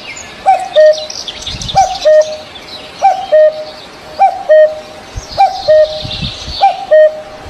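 Birds calling: a loud two-note call, a short hooked note then a lower held one, repeated about once a second, over the quick high chirping of smaller birds.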